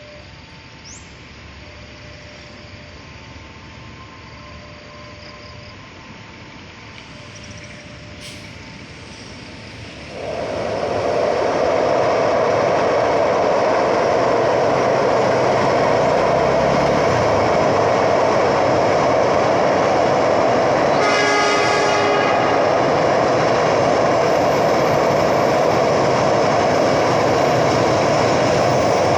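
A train passing close by: about ten seconds in, a loud, steady rumble and rattle of wheels on the rails sets in suddenly and holds. A little after twenty seconds the train gives one short horn blast.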